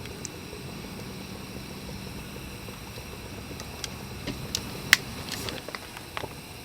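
Several light clicks and taps over a steady low hum, bunched in the second half, with one sharp crack about five seconds in.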